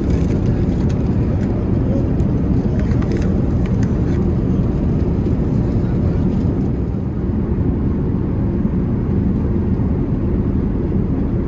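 Steady low rumble of an Airbus A380 in flight, heard from inside the cabin, with a few faint light clicks in the first few seconds.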